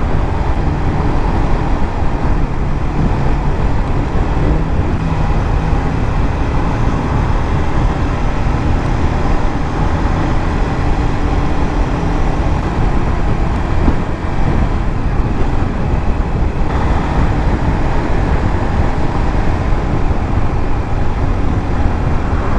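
A 150cc motorcycle underway in traffic: a steady, loud rush of riding noise with the engine running underneath.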